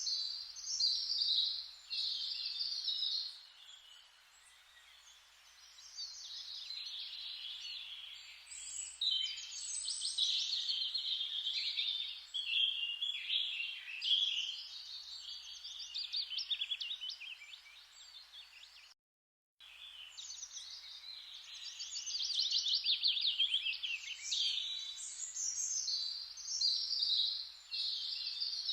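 Forest ambience of many birds singing and chirping in quick, overlapping phrases over a steady rustling hiss. The sound cuts out completely for about half a second about two-thirds of the way through.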